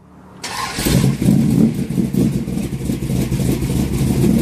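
Car engine running with a low, uneven rumble, coming in over the first half-second.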